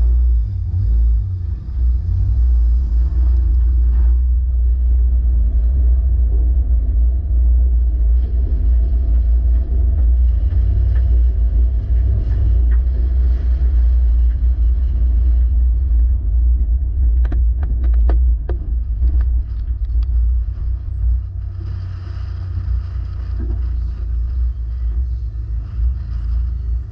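Toyota 86 on the move, heard as a steady deep rumble, with a cluster of sharp clicks and knocks about 17 to 19 seconds in; the rumble eases slightly a little after 20 seconds.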